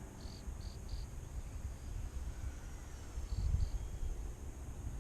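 Wind buffeting the microphone with a low, uneven rumble. High, short chirps come in two groups: three near the start and two more about three and a half seconds in.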